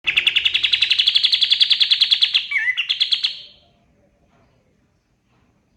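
A kapas tembak (white-shouldered triller) sings a fast, even trill of about ten notes a second. After about two and a half seconds it gives a downward-slurred note and a few more trill notes, then fades out.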